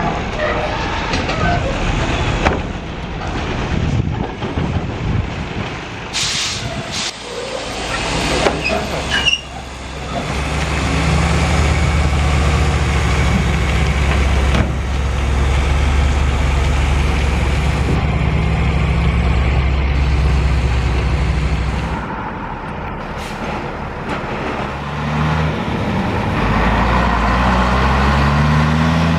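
Heavy truck engine running steadily, then pulling away with its pitch rising through the gears near the end. A hiss of air brakes comes about six seconds in.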